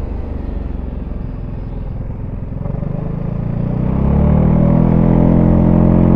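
Zontes E350 scooter's single-cylinder engine through its stock exhaust, heard on board while riding. The engine is quieter off the throttle at first; from about halfway it accelerates, the note rising, then holds loud near the end.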